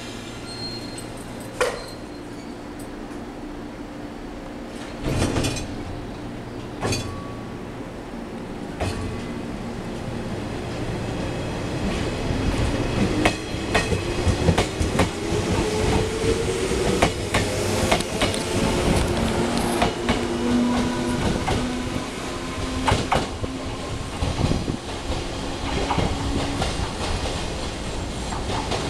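Shinano Railway 115-series electric train pulling away from the platform and passing close by. A few sharp knocks come as it starts off. Then a motor whine rises steadily in pitch as it accelerates, with wheels clicking over the rail joints, and the sound eases off as the train runs away.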